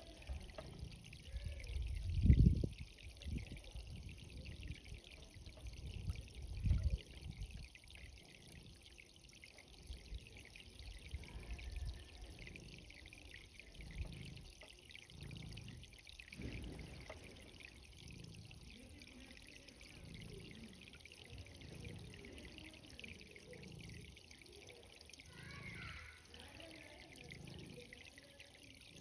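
Garden irrigation water running and trickling among cherry tomato plants, a steady hiss of flowing water. A couple of low rumbles break in, the loudest about two seconds in and another about seven seconds in.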